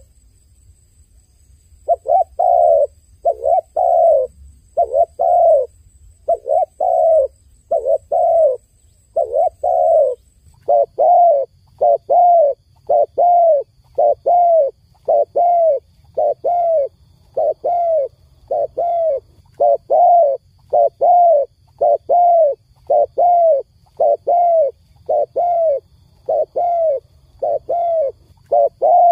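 Dove cooing: short, even coos repeated steadily about one and a half times a second, resuming after a pause of about two seconds at the start.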